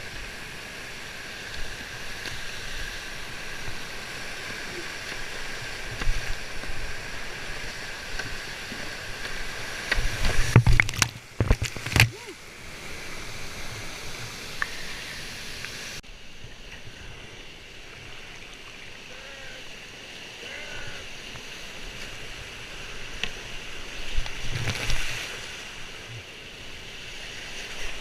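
Steady rush of whitewater at a waterfall run. There is a cluster of loud thumps and splashes about ten to twelve seconds in and another near the end.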